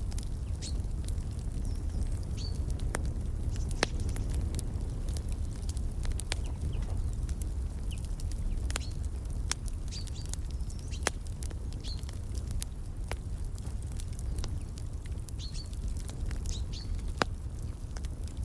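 Wood fire crackling in a fireplace: scattered sharp pops over a steady low rumble. Short, high bird chirps come through now and then.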